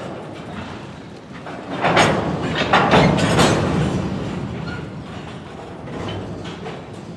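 Norfolk Southern freight train rolling slowly on the rails as it comes to a stop, wheels and cars rattling and clicking. About two seconds in there is a louder surge of rattling noise lasting a couple of seconds, which then fades back down.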